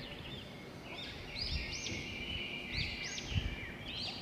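Birds chirping in the background: repeated groups of short, high, arched chirps over a faint steady hiss, with a soft low thud about three and a half seconds in.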